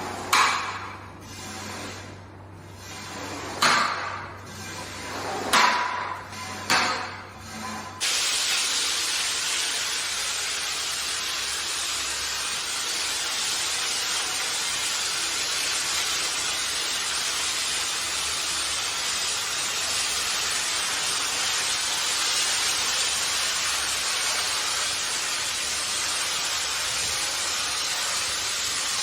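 Hand-held car wash sprayer jetting water onto a carpet: a few short spray bursts, then about eight seconds in a steady hiss of continuous spraying.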